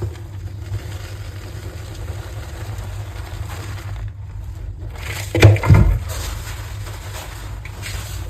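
A block of gym chalk is crushed by hand, giving one loud crumbly crunch about five and a half seconds in, with a few faint crackles around it. Under it runs a steady low rumble.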